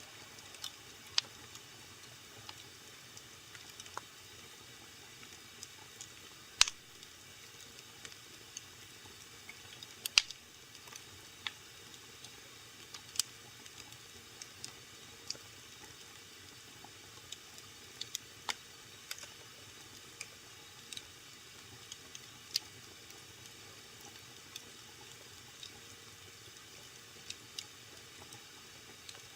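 Wood fire burning in a fireplace: a low steady hiss with irregular crackles and sharp pops, the loudest about a third of the way in.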